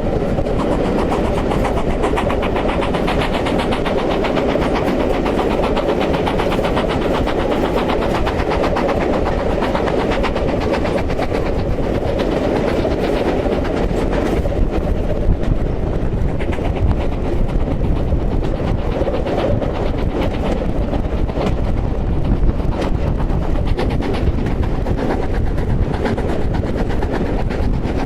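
Steam-hauled passenger train rolling steadily across a viaduct: a continuous loud rumble of wheels on rail with fast clickety-clack ticking through it.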